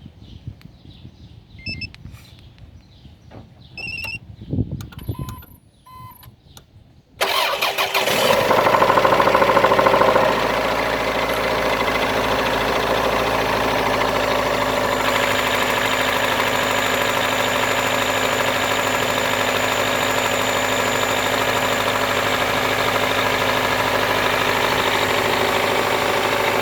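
Toyota Carina ED's 3S-FE four-cylinder engine cold-started after a day standing: a few faint beeps and clicks, then about seven seconds in the engine catches, runs loud for a few seconds and settles into a steady idle. The owner reports a short-lived knock at this kind of start after standing, gone when the warm engine is restarted.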